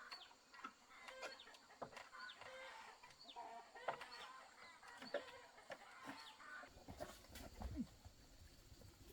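Chickens clucking faintly, with many short high peeping calls that fall in pitch. A few sharp knocks are also heard, the loudest about four seconds in.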